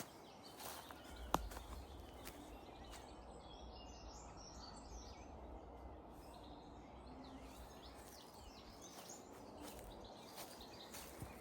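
Quiet woodland ambience: faint, distant birds chirping over a low rumble of wind, with one sharp click about a second in.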